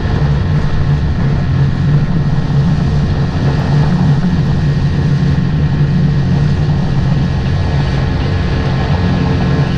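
Motorboat engine running steadily with a constant low hum, under a steady rush of noise.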